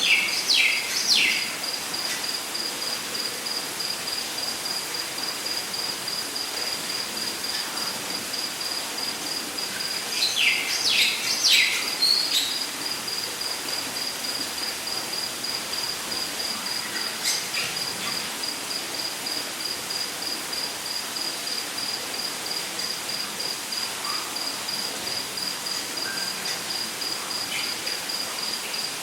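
Rainforest ambience: an insect, cricket-like, keeps up a steady high pulsing chirp, about three pulses a second, over the even hiss of a waterfall. A bird gives a quick series of downward-sliding whistled notes twice, about three at the very start and four or five around ten seconds in.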